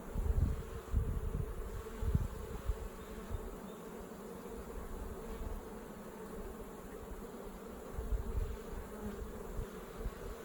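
Honeybees buzzing around an open hive, a steady hum. Low rumbling bumps come and go over it in the first couple of seconds and again near the end.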